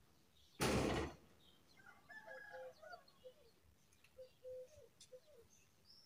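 Birds calling: one loud, harsh call about half a second long just under a second in, then soft, short, low-pitched clucking notes repeating on and off for the rest of the time.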